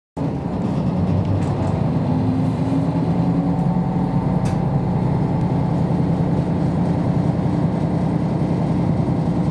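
Cabin noise of a KiHa 54 diesel railcar under way: a steady low diesel drone mixed with the running noise of wheels on rails.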